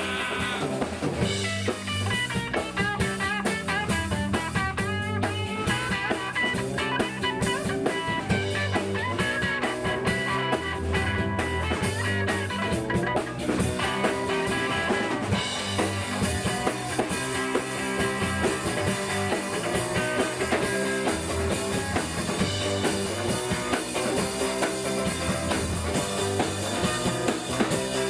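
Rock music with electric guitar and drum kit.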